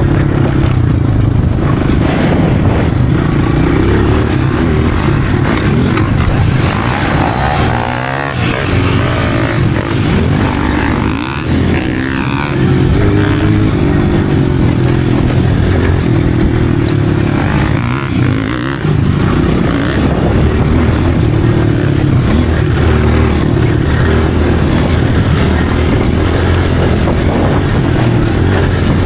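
Motocross dirt bike engine running hard, its pitch shifting as the throttle opens and closes, with brief dips a few times where it backs off.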